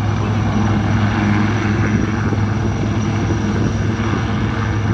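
Helicopter rotor and engine drone, loud and steady, with a strong low hum throughout.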